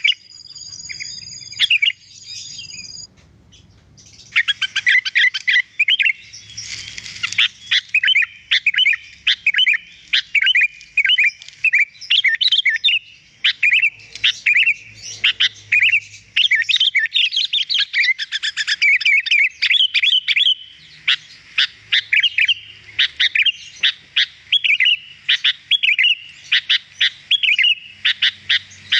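Sooty-headed bulbul (kutilang) singing: a higher, steadier trill for the first few seconds, a short lull, then a fast, nonstop run of chirps and whistles from about four seconds in.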